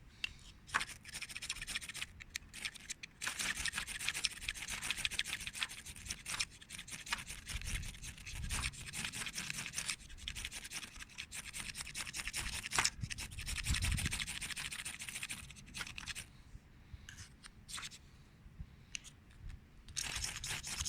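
Firesteel (ferrocerium rod) of a Ganzo G8012 survival knife being scraped hard and fast to throw sparks onto tinder: long runs of quick rasping strokes with short pauses, thinning out near the end. A few low thumps come between the runs.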